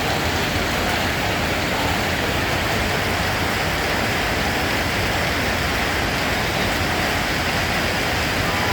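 Steady rain, an even unbroken hiss of falling rain with no single drops standing out.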